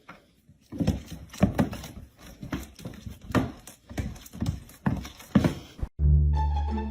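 A run of irregular knocks or thumps, about two or three a second, each with a short ringing tail. Music with plucked low notes starts suddenly near the end.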